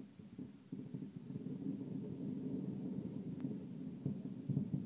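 Distant fireworks barrage: a dense run of overlapping booms and rumbling, growing louder about a second in.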